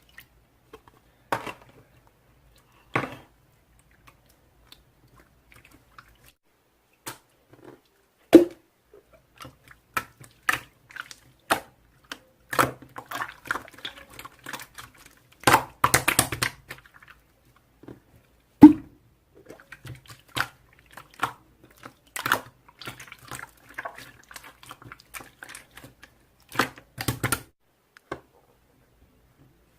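Slime being squished and worked by hand: irregular wet pops, clicks and crackles, with two louder pops about eight and eighteen seconds in.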